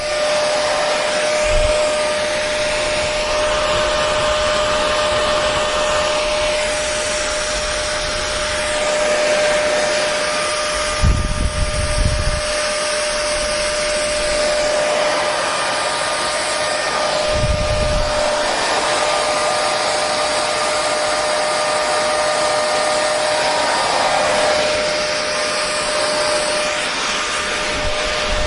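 Electric hair dryer running steadily: an even rushing of air over a constant motor hum. A couple of brief low rumbles come through, once near the middle and again a few seconds later.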